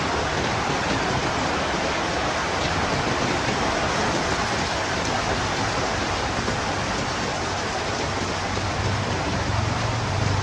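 Heavy rain falling as a steady, dense hiss, with a low wind rumble swelling near the end.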